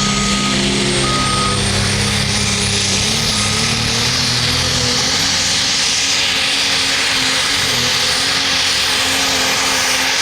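Competition pulling vehicle's engine running flat out under heavy load while it drags a weight-transfer sled down the track. The engine noise holds steady and dense, with a thin high whine climbing during the first few seconds.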